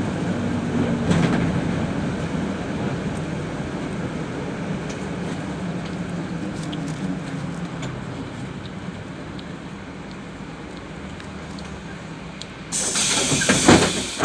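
Cabin noise inside a PAZ 32054 bus: the engine and road rumble die away steadily as the bus slows. Near the end comes a sudden loud hiss of compressed air lasting over a second, the bus's pneumatic system venting as it comes to a stop.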